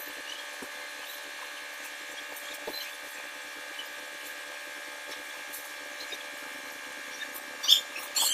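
Small electric power tool running at a steady speed, with a few sharp metallic clicks, the loudest near the end.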